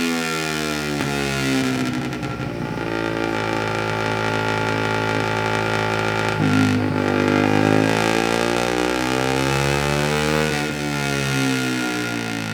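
Suzuki GSX-R150's single-cylinder engine through a Yoshimura R77 full-system exhaust, revs falling away, then holding steady. About six and a half seconds in it is blipped and the revs fall again, then they climb near the end.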